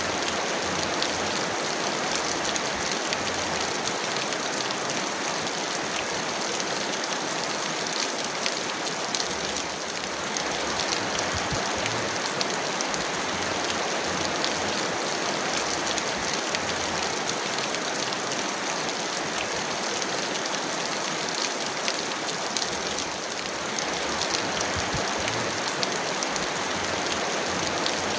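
Heavy rain falling steadily: a dense, even hiss with many fine drop ticks, easing slightly for a moment twice.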